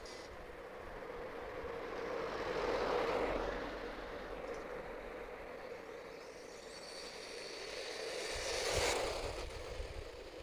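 HPI Savage XS SS Flux brushless electric RC monster truck driving past twice on the street: tyre and drivetrain noise swells about three seconds in and again near the end, the second pass with a high motor whine.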